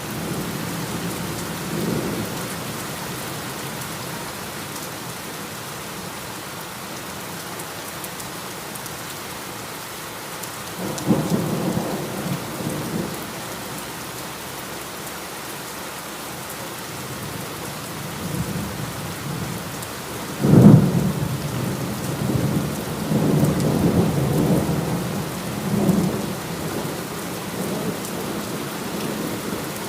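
Steady heavy rain with thunder rumbling several times: a low roll about a third of the way in, then a sharp, loud clap about two-thirds in that rolls on in rumbles for several seconds.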